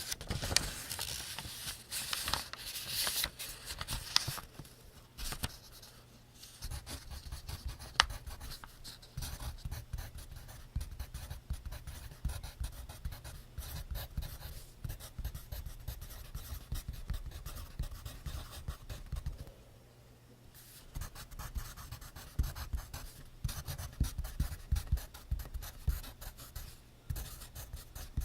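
Pencil writing on notebook paper: continuous quick, scratchy strokes with soft taps on the page. The scratching is brighter and louder in the first few seconds, and it pauses briefly about two-thirds of the way through.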